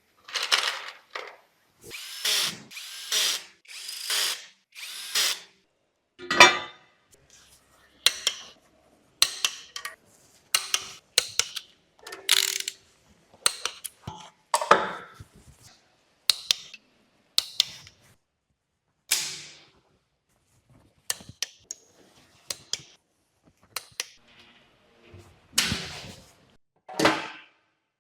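Handheld power tool run in many short bursts, one after another with brief pauses between them.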